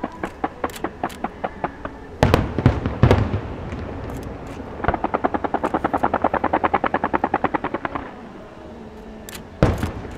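Aerial fireworks bursting. A steady run of pops at about five a second gives way to a few heavy booms. Then comes a fast rattling run of reports lasting about three seconds, and one more boom near the end.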